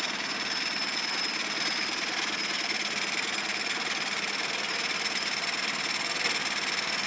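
1998 Suzuki 9.9 hp four-stroke outboard motor running steadily at idle, turned down to slow.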